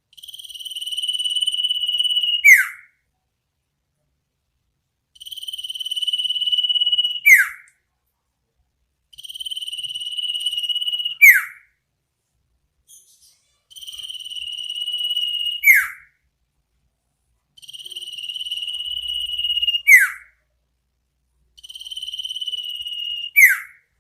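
Iora (sirtu) giving its 'ngetir nyipow' call six times, about every four seconds: each is a long, steady high trill that swells in loudness, ending in a sharp downward whistle.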